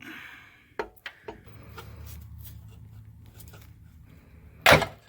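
Metal scraping and clicking as a pry bar works a timing cover loose from the engine, with one loud sharp metallic knock near the end and a low steady hum underneath.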